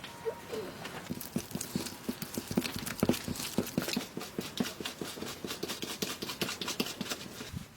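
A quick, uneven run of short knocks, several a second, like food prep on a board.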